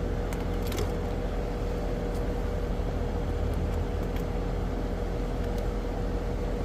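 Steady drone of a running outdoor air-conditioning unit, with a constant hum and a low rumble, and a few light clicks of hands working on the wiring.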